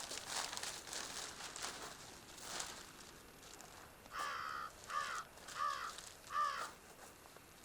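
A crow caws four times in a row, each call short and arching, in the second half. Before that there is irregular rustling and crunching.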